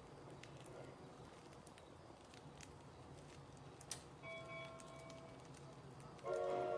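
Small pet birds pecking seeds off a millet spray: faint, scattered light ticks. A brief ringing tone comes in about four seconds in, and louder tones start near the end.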